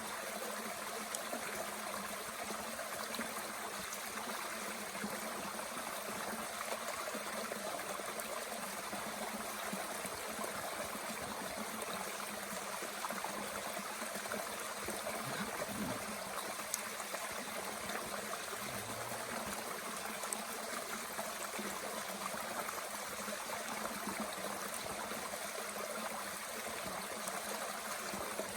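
A mountain brook flowing steadily with a constant rush of water, and a few faint crackles from a small wood fire.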